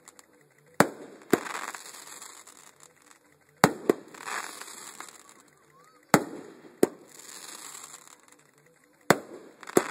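Aerial fireworks going off: sharp bangs in close pairs, four pairs about two and a half seconds apart, each followed by about a second of crackling hiss.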